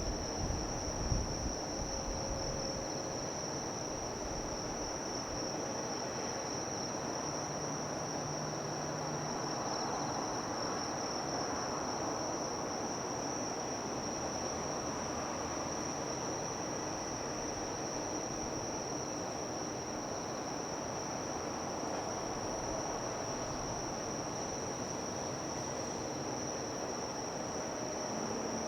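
Steady, unbroken high-pitched insect drone, over a constant low hiss of outdoor harbour ambience.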